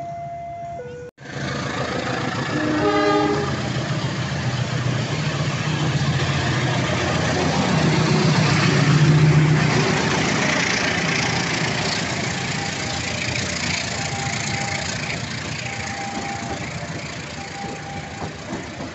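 A CC 203 diesel-electric locomotive gives a short horn blast about three seconds in. Its passenger coaches then run past close by with a loud, steady rumble of wheels on rail, loudest about halfway through. It opens with a brief steady two-pitch tone that cuts off about a second in.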